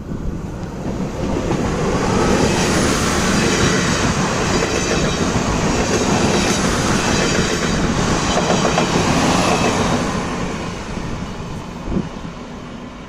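Two coupled PESA 730ML diesel multiple units passing at speed, their wheels running over the rails. The sound builds over the first couple of seconds, stays loud, then fades away after about ten seconds.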